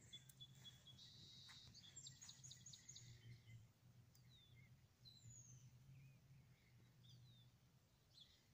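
Near silence: faint scattered bird calls, short high chirps sliding downward several times, a brief buzzy trill and a quick run of notes, over a low steady hum.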